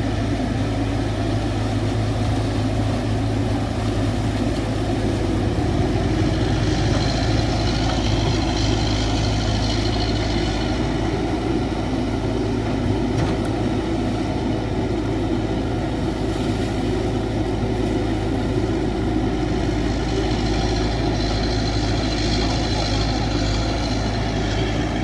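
CAT 312 hydraulic excavator running steadily at work, with a higher whine that swells twice as it digs.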